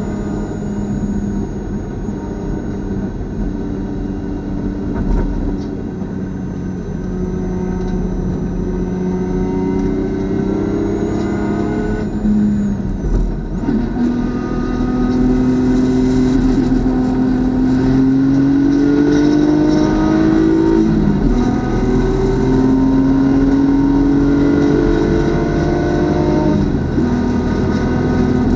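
Race car engine under hard acceleration: its pitch climbs steadily for several seconds, then drops sharply about three times, as at gear changes, then climbs again.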